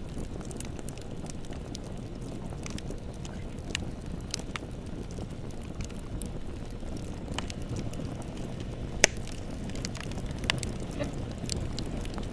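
Bonfire burning: a steady low rush of flames with irregular crackles and pops of burning wood, the sharpest pop about nine seconds in.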